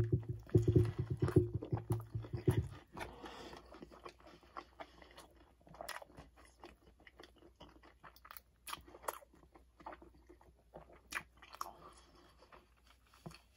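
Close-miked biting into a crispy fried chicken sandwich, then chewing with the mouth closed: crunching and wet mouth clicks. Loudest over the first few seconds after the bite, then softer, scattered chewing clicks.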